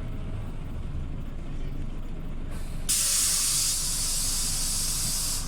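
Scania OmniLink city bus engine rumbling low, then about three seconds in a sudden loud hiss of compressed air released from the bus's pneumatic system, lasting about two and a half seconds.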